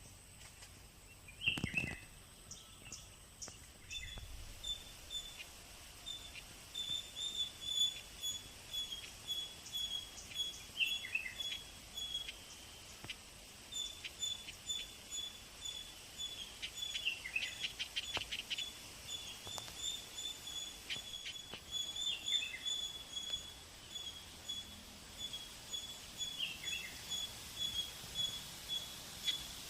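Birds chirping: short high chirps repeated in quick runs, with a few separate calls that slide down in pitch.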